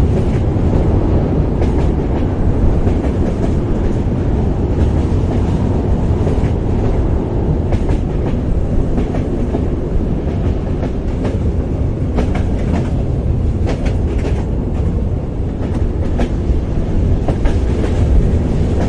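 Train running along the track: a steady low rumble with scattered sharp clicks from the wheels and rails, more frequent in the second half.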